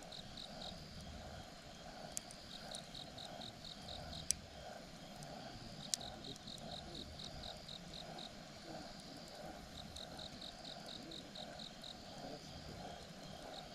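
Campfire crackling with three sharp pops, over insects chirping in rhythmic trains of about four to five chirps a second.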